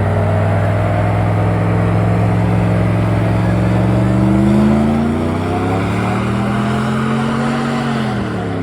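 A loud-exhaust pickup truck engine running. Its pitch climbs steadily over a few seconds as it revs or pulls away, holds, then drops sharply near the end.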